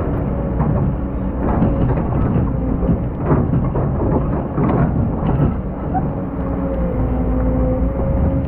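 Excavator's diesel engine running steadily, with a held tone and repeated knocks and scrapes as the bucket digs sand.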